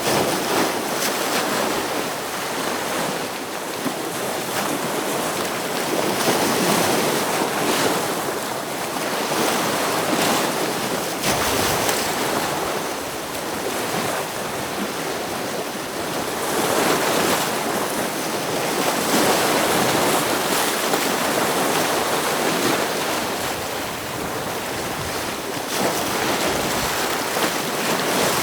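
Ocean waves surging and breaking against rocks, a steady wash of surf that swells and ebbs every few seconds.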